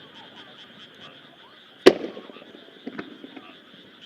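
Aerial firework shells bursting: one sharp, loud bang about two seconds in that echoes away, and a fainter bang about a second later. A steady pulsing chorus of frogs runs underneath.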